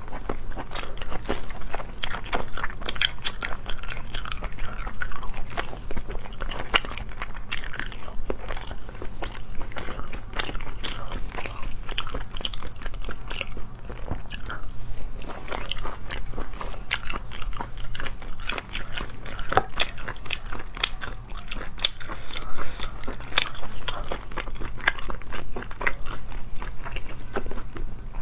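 Close-miked chewing and biting of spicy sea snail meat, a dense run of quick mouth clicks, crunches and smacks.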